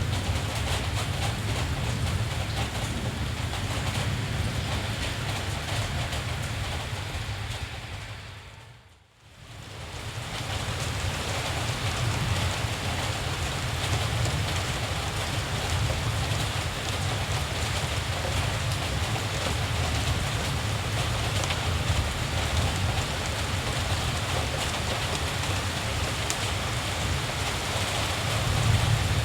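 Steady rain with a low rumble underneath. About eight seconds in, it fades out almost to silence and fades back in over the next two seconds.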